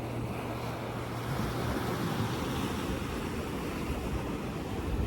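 Ocean surf washing onto the beach, with wind rumbling on the microphone. A low steady hum fades out about a second in.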